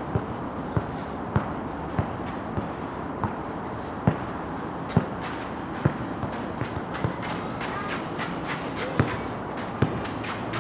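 Footballs being dribbled and feet running on a court during a dribbling drill: irregular knocks of ball touches, the loudest about once a second, among lighter footfalls, over a steady background noise.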